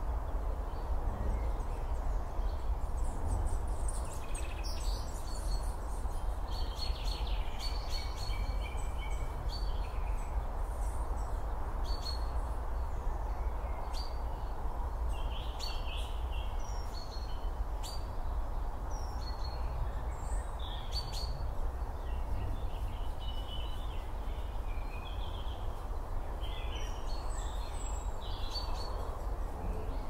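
Outdoor field ambience: birds calling and chirping on and off, over a steady low rumble and hiss.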